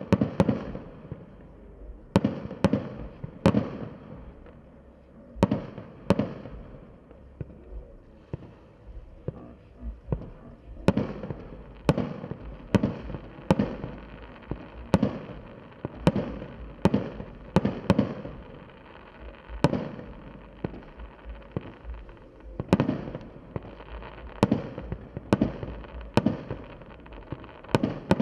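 Fireworks display: aerial shells bursting in an irregular run of sharp bangs, roughly one a second and some in quick pairs, each trailing off in a short rumble.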